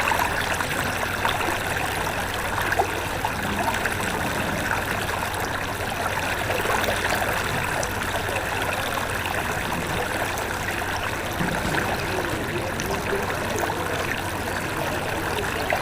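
Fast-moving floodwater of a flash-flooded river, rushing steadily and evenly.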